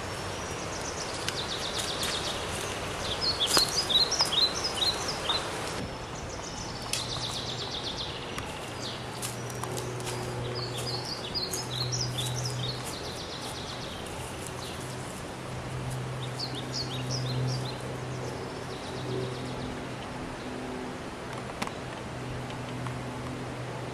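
Outdoor ambience with birds chirping and calling in bursts of short high notes, over a steady background hiss. From about a third of the way in, a low steady drone comes and goes underneath.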